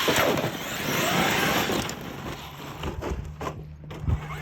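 Traxxas X-Maxx 8S electric RC monster truck driving over rocks and gravel: rough crunching noise for about two seconds, then a steady low hum with a few sharp clicks.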